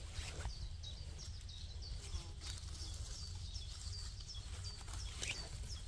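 A small bird calling with short, high, downward chirps, several a second, against a low steady rumble. Brief rustles of leaf litter and moss come near the start and about five seconds in as chanterelles are picked.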